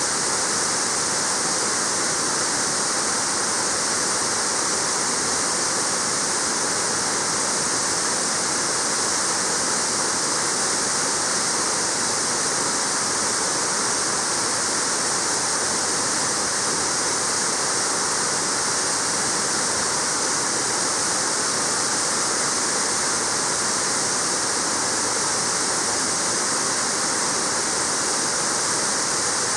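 Waterfall: water falling and splashing, a steady, unbroken rush with a strong hiss.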